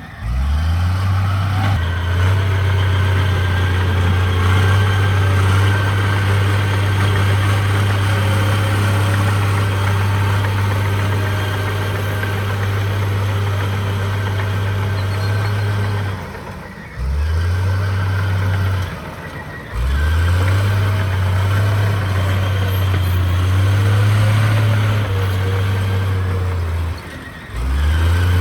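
Heavy diesel engine of earthmoving machinery running hard and steadily. It drops away briefly three times and each time climbs back up in speed.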